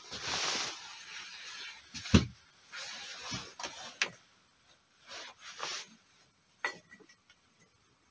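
Bursts of scraping and rubbing, each under a second long, broken by a few knocks; the loudest knock comes about two seconds in.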